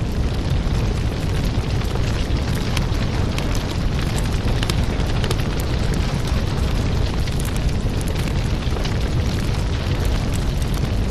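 Fireplace fire crackling: a steady low rush of burning flames with frequent sharp pops and snaps throughout.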